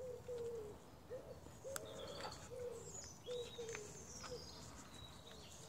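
Birds calling: a run of short, low cooing notes about every half second, with higher, thinner chirps over them.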